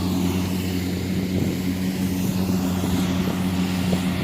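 Kubota DC-70 combine harvester's diesel engine running at a steady, even pitch.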